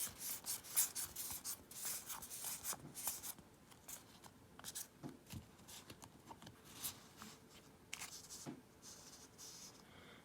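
Magic: The Gathering cards and booster-pack wrapper being handled: a dense run of quick rustles and scrapes in the first three seconds, then sparser rubs and clicks as the cards are sorted.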